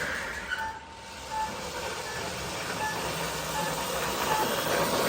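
Road Rippers Comeback Racers toy Chevy Camaro running with its electronic sound effects, a hissy, noisy engine rumble from its small speaker. Short faint beeps recur about every three quarters of a second.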